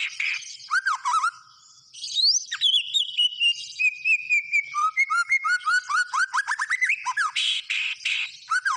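White-rumped shama singing vigorously: a varied song of clear whistled notes sliding up and down, mixed with short harsh chattering bursts. It pauses briefly about a second and a half in, then goes on with a long whistle and a fast run of short rising notes.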